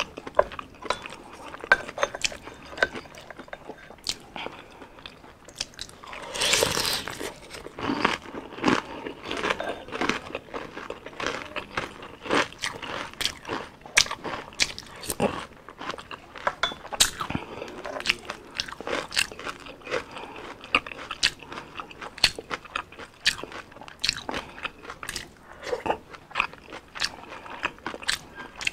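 Close-miked eating of fried street food: a steady run of sharp crunches, bites and mouth clicks as it is chewed. One longer, louder noise comes about six seconds in.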